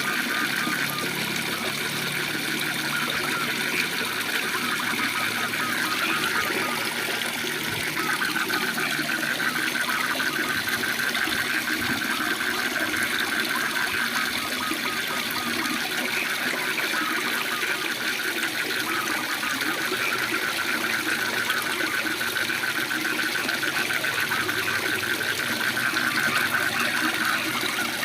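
Steady rush of a waterfall, with a chorus of frogs trilling in fast pulses over it.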